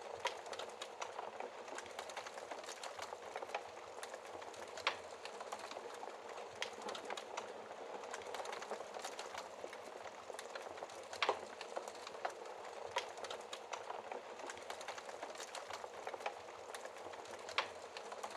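Wood fire crackling in a fireplace: a steady hiss with many small pops, and three louder snaps standing out.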